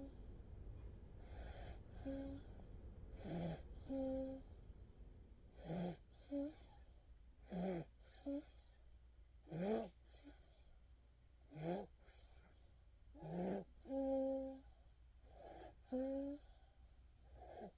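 Sleeping nine-month-old baby breathing noisily, about one breath every two seconds. Each breath is a rough, breathy snuffle followed by a short squeak.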